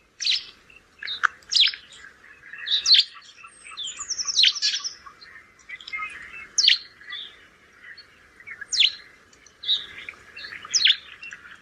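House sparrows chirping: loud, sharp falling chirps repeated about every second or two, with a short quick trill about four seconds in and softer chattering from other birds throughout.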